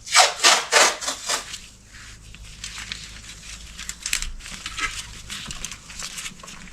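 Crinkling and rustling with small clicks as wastegate springs and their packaging are handled, a few louder rustles in the first second and a half.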